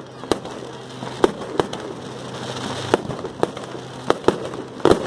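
Fireworks display going off: a string of sharp bangs at irregular intervals, roughly one every half second, over a steady background rumble.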